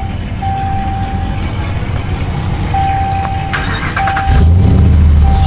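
A pickup truck's dashboard warning chime dings repeatedly. About three and a half seconds in, the starter cranks, and the engine catches and settles into a loud, deep idle.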